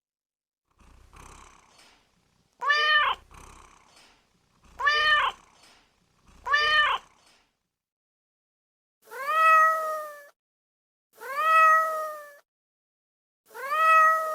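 Domestic cat meowing, six separate meows: three short ones about two seconds apart, then three longer, drawn-out ones.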